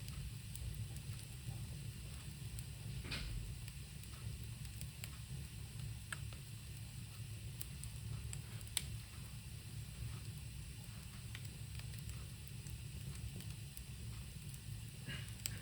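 Small ritual fire burning with a steady hiss and scattered crackles, with a few sharper pops, the clearest about 3 and 9 seconds in.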